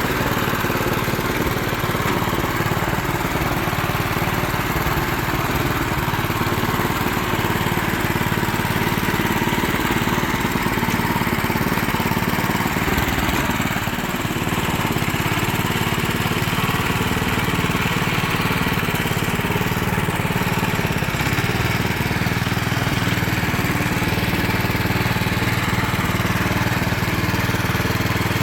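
Small engine of a self-propelled boat trailer running steadily at an even speed.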